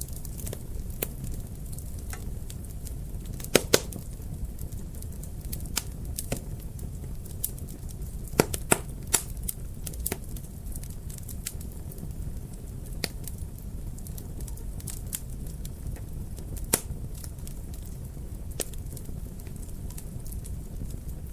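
Wood fire burning in a fireplace: irregular sharp crackles and pops over a steady low rumble of the flames, with a few louder pairs of pops.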